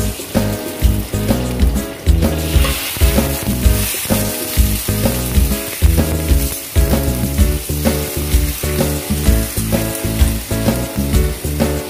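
Pork slices, garlic and dried chilli sizzling in hot oil in a wok while a metal spatula stirs them; the sizzle grows louder about two and a half seconds in, when the pork goes in. Background music with a steady beat plays over it.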